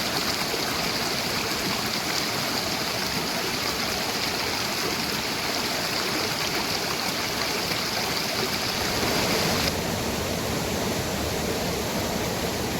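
Steady rush of running water, an even hiss with no breaks. A higher steady hiss layered over it stops about three quarters of the way in.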